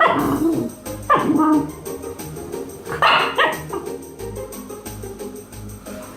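Shiba Inu barking in three short bursts, the second and third each a quick double bark, at a dog toy it is both afraid of and angry at.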